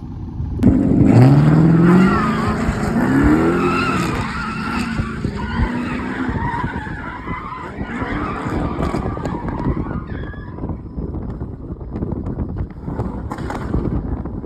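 A car engine revving hard with tyres skidding, as in a burnout or drift. It starts suddenly under a second in and rises in pitch twice, then eases off over the last few seconds.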